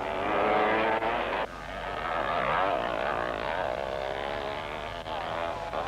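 Scrambles motorcycle engines running and revving, their pitch wavering up and down. The sound drops off abruptly about a second and a half in, then builds again.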